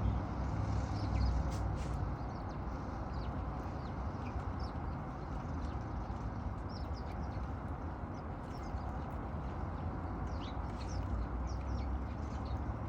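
Birds chirping, many short high chirps scattered throughout, over a steady low rumble of background noise.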